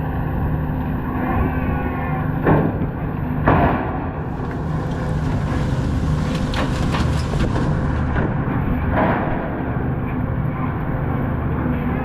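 Prawn trawler's engine running steadily, with a few sharp knocks over it, the two loudest about a second apart some two and a half seconds in and lighter ones later.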